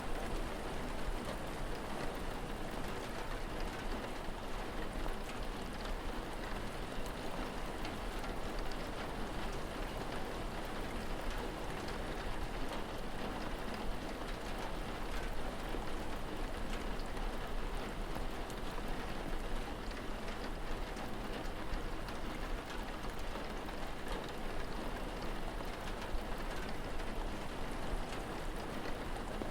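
Steady rain falling, with fine scattered drop ticks over an even hiss and a low rumble underneath.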